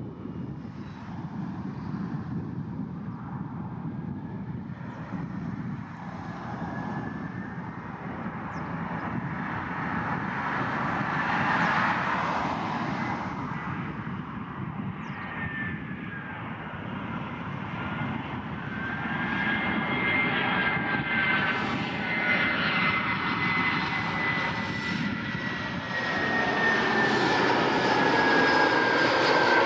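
An Airbus A319-100 jet airliner arriving to land, its engines running as a steady roar that slowly grows louder. Through the second half a high engine whine glides gently down in pitch, and the sound swells further near the end.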